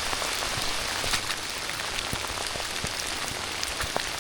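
Steady rain falling, an even hiss, with scattered sharp taps of single drops striking close by.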